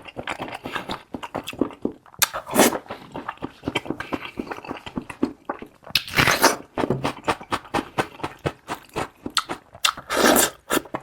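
Close-up chewing and wet mouth sounds of someone eating spicy monkfish and fish maw: a dense run of small smacks and clicks, with three longer, louder noisy bursts, about 2.5 s, 6 s and 10 s in.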